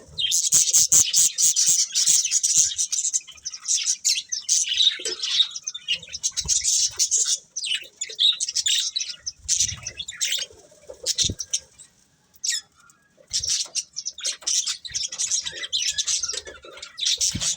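Budgerigars chirping and chattering in rapid high twitters, with a short pause about two-thirds of the way through.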